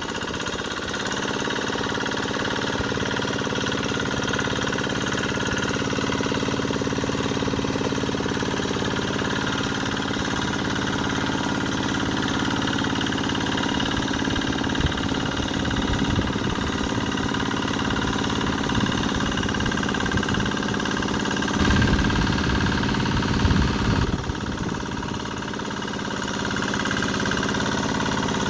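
Two-wheel hand tractor (motor plough) engine running steadily. About three quarters of the way through it gets louder and heavier for a couple of seconds, then eases again.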